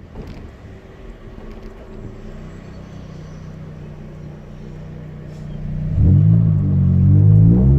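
Chevrolet Celta's 1.0-litre four-cylinder engine, running on ethanol through a 4-into-1 header and a straight two-inch exhaust with no mufflers. It idles steadily at first, then is revved hard about six seconds in, its pitch climbing and falling and then rising again at the end.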